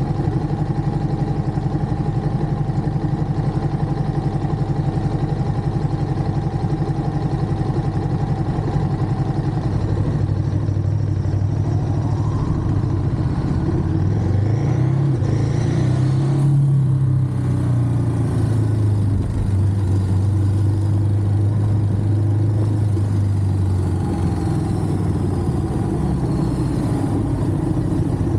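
Ducati Monster motorcycle's twin-cylinder engine running on the move. It holds a steady note for about ten seconds, then rises in pitch as the bike accelerates past the middle, with a brief break, then settles into a steady note again.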